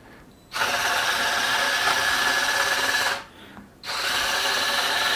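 CADA micro-motors driving a motorized LEGO truck's plastic tracks, a steady whine that runs twice, with a short pause between the runs. The tracks have no rubber pads, so on a flat surface they grip badly.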